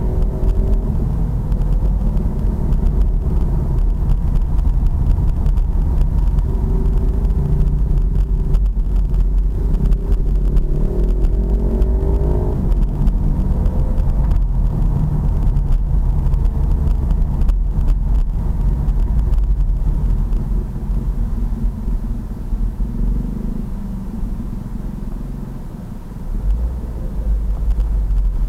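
Pit bike's small single-cylinder engine running under way, its pitch rising and falling with the throttle over a steady low rumble. It eases off for a few seconds near the end, then picks up again.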